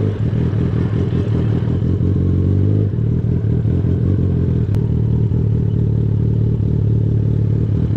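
Sportbike engine running steadily, holding an even pitch, with one brief click about halfway through.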